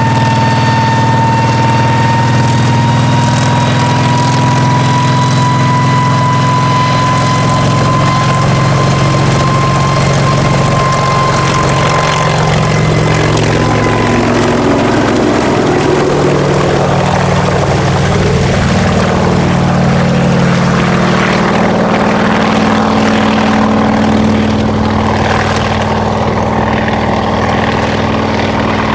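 Kamov Ka-26 helicopter running in flight: the drone of its two radial piston engines and coaxial rotors, with a high whine that fades about halfway through. The engine tones shift in pitch midway and the sound grows duller near the end.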